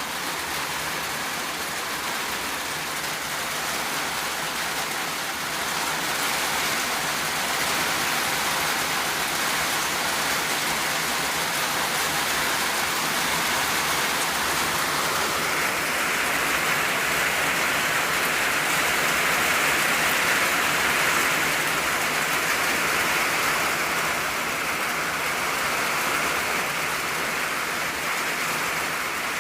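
Steady rain drumming on an old tin roof, a dense even patter of drops on the metal. It swells a little about a quarter of the way in, grows heavier past the middle, and eases slightly near the end.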